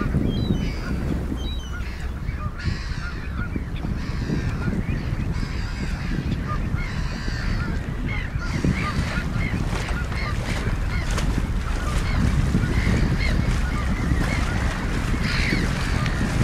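A flock of birds calling with many short, repeated calls, over a steady low rumble of wind on the microphone.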